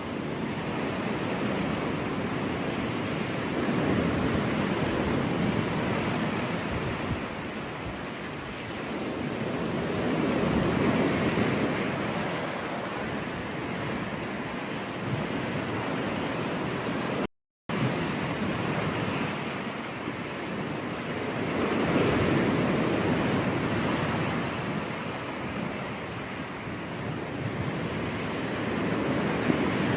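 Ocean surf breaking on a beach, a steady wash of water that swells and falls back every six or seven seconds. The sound cuts out completely for a split second about halfway through.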